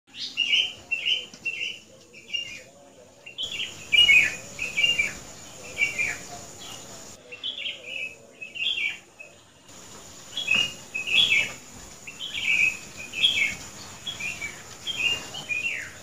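Small birds chirping in quick runs of short, high notes, several a second, with brief pauses between runs.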